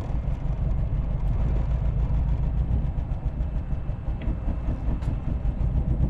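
MG TD's 1.3-litre XPAG four-cylinder engine running as the car rolls slowly. It is starved of fuel by a clogged fuel-tank screen and close to stalling.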